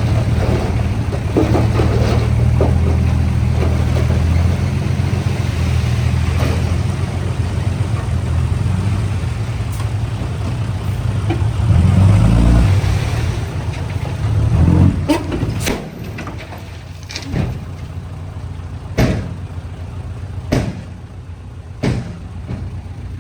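Heavy construction machine's diesel engine running, strong and steady at first with two brief surges around the middle, then dropping back. Several sharp clanks sound in the later part.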